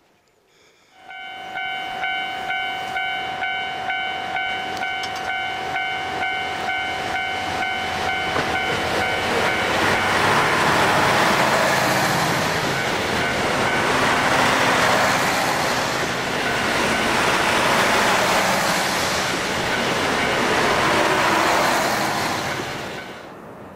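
Diesel multiple-unit train passing close by. First its wheels clack rhythmically, about one and a half times a second, under a long steady high tone. Then a loud rush of running noise comes as the cars go past, and the sound cuts off abruptly near the end.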